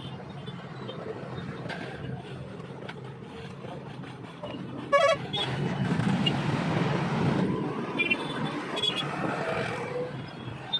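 Road traffic with a single short vehicle horn blast about five seconds in, after which the traffic noise grows louder.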